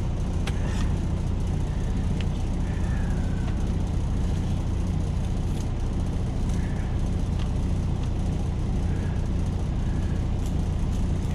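Semi truck's diesel engine idling steadily, a constant low hum heard from inside the cab, with a few faint clicks on top.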